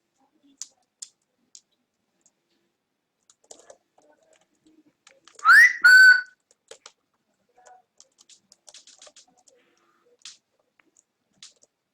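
Cockatiel whistling once about halfway through: a quick rising note straight into a held note, loud and clear, with faint scattered clicks around it.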